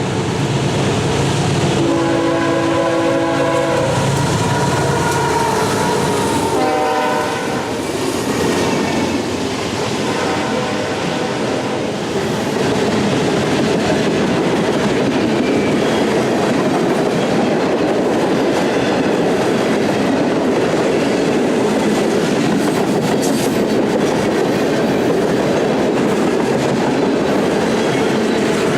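Train horn sounding a chord of several notes, a long blast then a short one a few seconds later, followed by the train rolling past with steady wheel-on-rail noise and clickety-clack.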